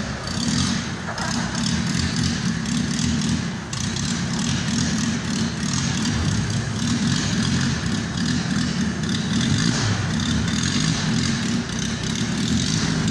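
Opel Kadett's petrol engine running steadily as the car drives off at walking pace.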